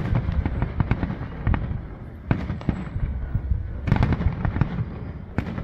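Aerial fireworks bursting in a rapid barrage: many sharp bangs and crackles over a steady low rumble, with a heavy cluster of bursts about four seconds in.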